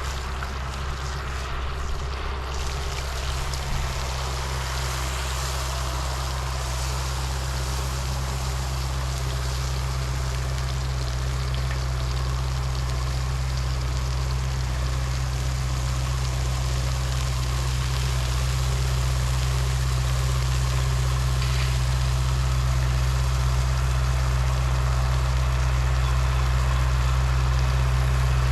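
A large engine running steadily, a deep hum that grows slowly louder.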